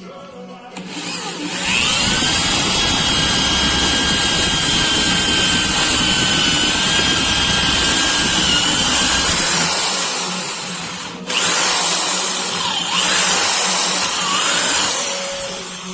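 Handheld electric power tool, drill-like, running: its motor spins up with a rising whine over the first second and a half, runs at a steady high whine, cuts out briefly around 11 seconds, then runs again with the pitch dipping and wavering as if under load.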